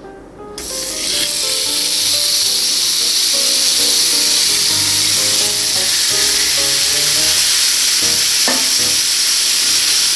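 Seasoned swordfish steaks sizzling on a hot ridged grill pan. The sizzle starts suddenly about half a second in as the fish hits the pan, then holds loud and steady. Light background music plays underneath.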